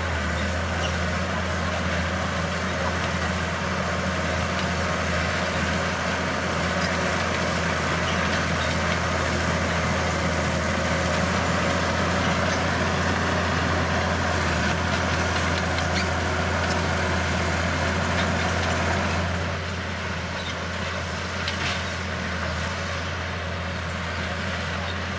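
Bulldozer's diesel engine running steadily under work, its level easing off slightly about nineteen seconds in, with a couple of light knocks near the end.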